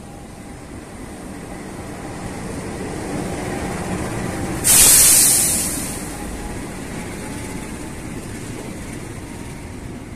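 A train running past with a steady rumble that builds, then a sudden loud blast of hissing air about halfway through, fading over a second or so back into the rumble.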